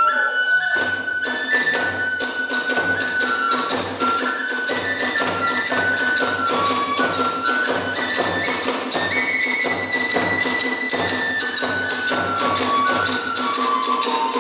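Kagura hayashi music: a bamboo transverse flute plays a stepping melody over a steady, quick beat of drum and small hand cymbals.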